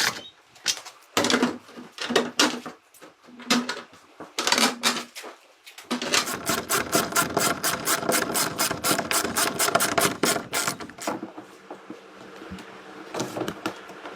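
Rapid, even mechanical clicking or tapping from a tool at work, about eight or nine strokes a second for around five seconds, after several irregular knocks.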